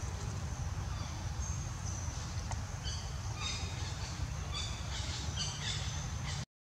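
Birds chirping: many short, high calls repeating in quick series, most of them in the second half, over a steady low rumble. The sound cuts out for a moment near the end.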